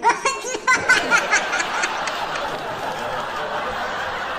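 Quick, high-pitched bursts of laughter for about the first two seconds, giving way to a steady hiss-like noise.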